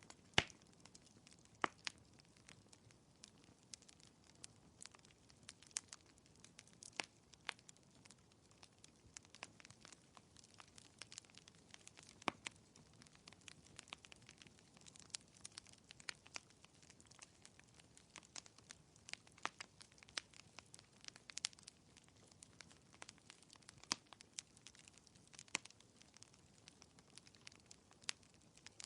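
Faint fireplace crackling: irregular pops and snaps of burning wood, several a second at varying loudness, over a low steady hiss.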